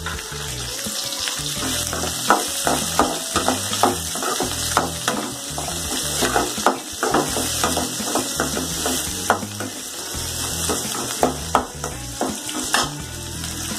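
Sliced shallots and curry leaves sizzling in hot oil in an aluminium kadai, with a steady high hiss. A metal ladle stirs them, knocking and scraping against the pan in many quick irregular clicks.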